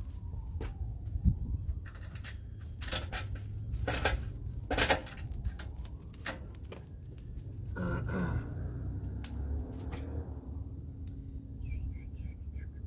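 Clicks, knocks and rattles of a Classen TRC-20 power rake being readied for a cold start, with most of the sharp clicks between about two and five seconds in and a short harsher burst about eight seconds in. A steady low rumble lies under it; the engine is not heard running.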